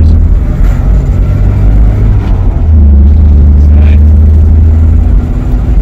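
Volvo 144 E's fuel-injected four-cylinder engine and road noise heard from inside the cabin while driving: a loud, steady, deep drone that eases off briefly about two seconds in, then comes back strongly.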